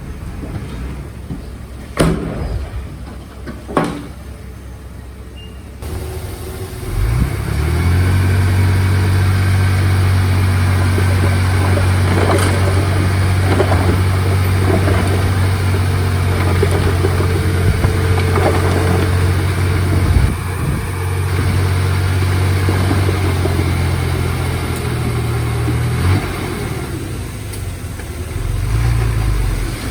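A heavy diesel engine of earthmoving equipment revs up about seven seconds in and then runs loud and steady under load, shifting in pitch near the end. Two sharp knocks come a couple of seconds apart before it picks up.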